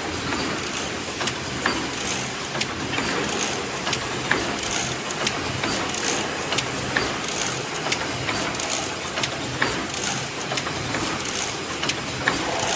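CNC chain-link fence weaving machine running, a steady mechanical clatter with sharp clicks repeating in an even rhythm.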